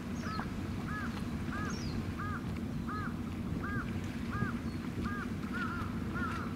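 A bird calling over and over, a short rising-and-falling note about every two-thirds of a second, the notes turning into quicker broken chirps near the end. Under it runs the steady low rumble of a passing ship's engine and wind on the microphone.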